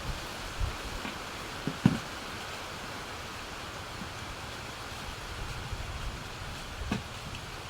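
Steady hiss of falling rain, with a sharp knock just under two seconds in and a lighter one near the end.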